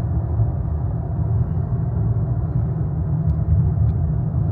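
Dodge Charger Hellcat Redeye's supercharged 6.2-litre V8 running at low speed in traffic, a steady low rumble heard from inside the cabin.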